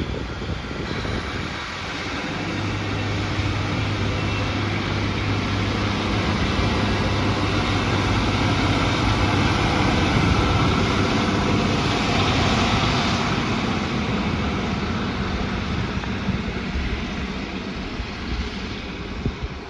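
A passing train: a steady rumble with a low drone that builds to its loudest about halfway through, then slowly fades away.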